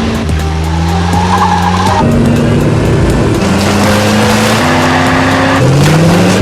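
Car engines revving hard through the gears with tyres squealing, a chase soundtrack mixed with music.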